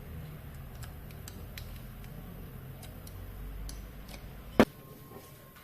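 Scattered light clicks and taps of hand work on a scooter engine, with one sharp loud click about four and a half seconds in; a low hum underneath stops at that click.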